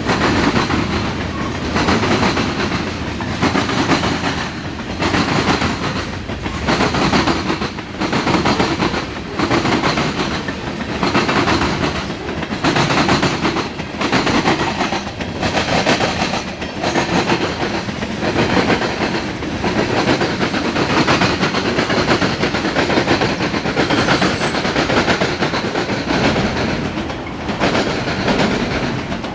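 Mixed freight train's cars rolling past, steel wheels clacking over rail joints in a steady, regular rhythm about once a second.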